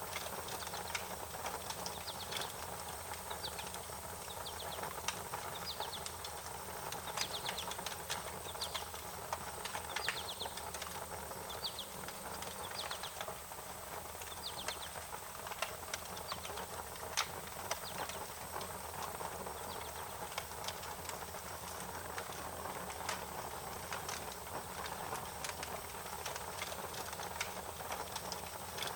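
Wood fire crackling, with sharp pops over a steady hiss, while short high chirping calls repeat every second or two.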